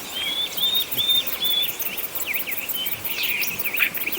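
Birds singing: a run of four even, repeated whistled notes, then quicker varied chirps, over a fast, regular pulsing trill of insects.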